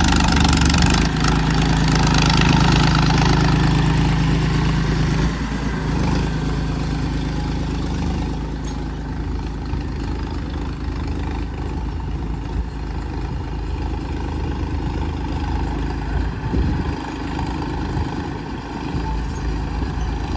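Farmtrac 41 tractor's diesel engine running steadily, louder for the first few seconds, then settling to a lower level.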